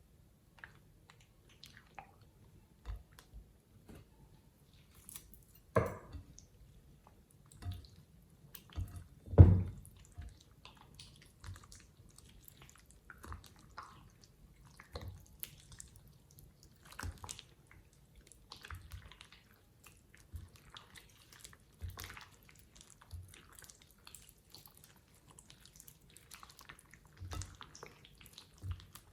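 Slime being squeezed and pressed by hand: irregular soft wet clicks and squelches, with two louder thumps about six and nine and a half seconds in.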